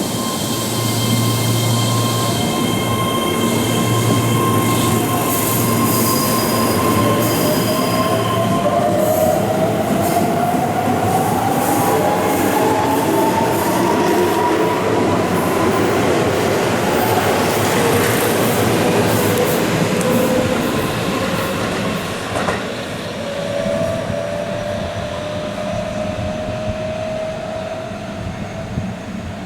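Keihan electric train running on the curved track through an elevated station: rail and wheel noise with a high wheel squeal, and a motor whine that rises in pitch as the train gathers speed, rising again near the end.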